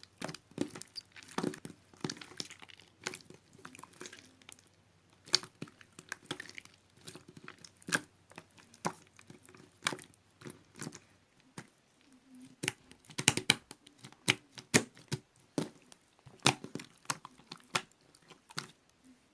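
Irregular crinkling and crackling, a steady scatter of sharp clicks with louder cracks now and then, as something crinkly is handled or crumpled in a small room.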